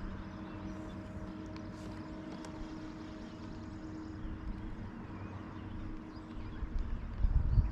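Steady drone of a boat motor on the lake, a low hum that fades out about halfway through, over an outdoor background. Low rumbling bumps come near the end.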